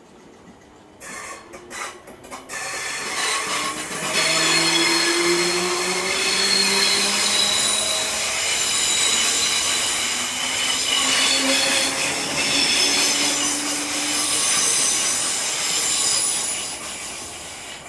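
Electric multiple-unit train passing close by: a few sharp wheel clicks over the rail joints, then loud running noise with wheel squeal and a slowly rising motor whine, fading away near the end.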